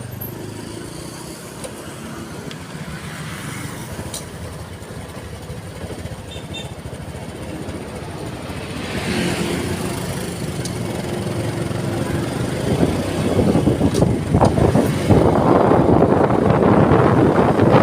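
Road noise from a moving vehicle in traffic, with wind buffeting the microphone, growing louder and rougher over the last several seconds.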